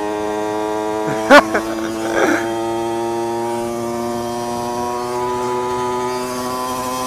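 A small motorcycle engine runs at a steady buzzing pitch while riding, its pitch creeping up slowly. A short loud voice-like burst comes about a second in.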